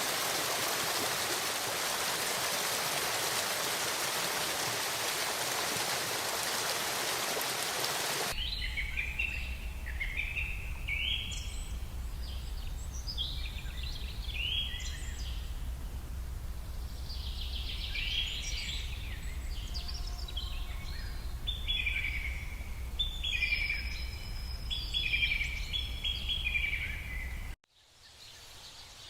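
A steady rushing hiss like running water for about eight seconds, then an abrupt cut to birds singing: repeated short chirping phrases over a low rumble, which stop with a sharp cut near the end.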